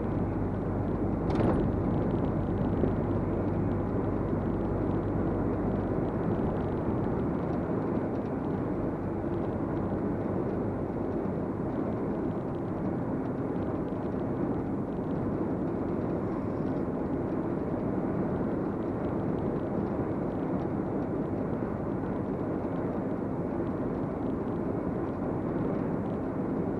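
Cab interior of a 2023 MAN TGX 470 diesel lorry driving under heavy load: steady engine and road drone, with a faint rattle from the passenger-door mirror. A sharp click sounds about a second and a half in.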